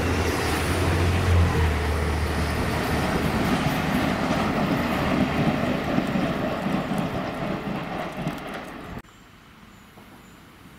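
A diesel multiple-unit passenger train passes close by and pulls away: a loud low engine rumble and rolling wheel noise that slowly fade. About nine seconds in the sound cuts off abruptly, leaving a quiet outdoor background.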